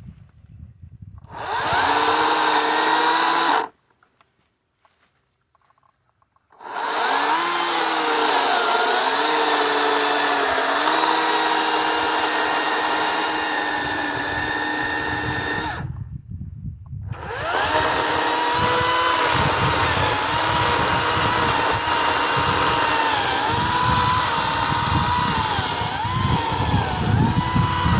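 Kobalt 40V Max cordless electric chainsaw running in three runs, a short one and then two long ones, its motor whine dipping and wavering in pitch as the chain cuts dry cedar. The saw stops completely between runs.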